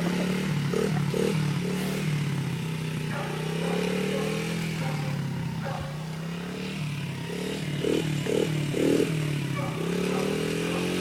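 Dirt bike engine running, its pitch rising and falling again and again as the throttle is opened and eased off.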